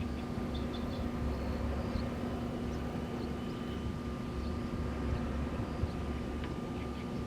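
Wind blowing in gusts with a steady two-tone hum from wind turbines, and a few faint high chirps.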